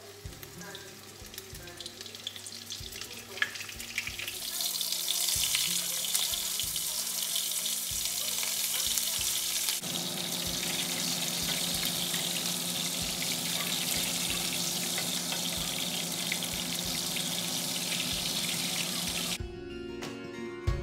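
Beef-and-pork patties frying in hot vegetable oil in a stainless frying pan: the sizzle starts quietly with a few small knocks as patties go in, swells about four seconds in and then holds steady. Near the end it gives way to music.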